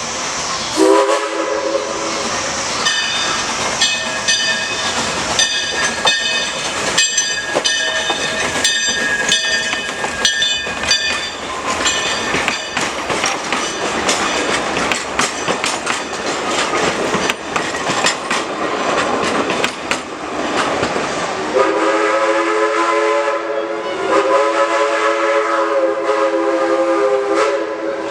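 Small steam locomotive under way with steady clattering, its chime whistle giving a short toot about a second in. A bell rings repeatedly for several seconds after that, and near the end the whistle blows two long blasts.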